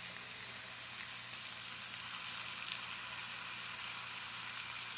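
Steady sizzling of food cooking down in a pan on the stove, with a low steady hum beneath.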